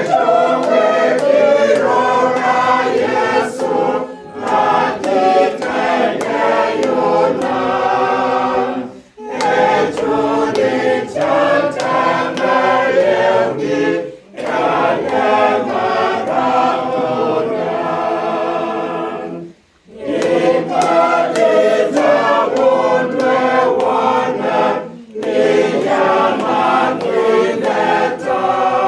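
Choir singing unaccompanied in harmony, in phrases with short breaks between them.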